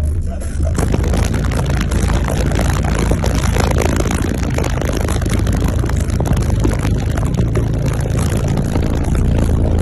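Car-audio subwoofers at very high volume pushing a steady deep bass tone, with the rush of air from the speakers buffeting the microphone as rough, wind-like noise.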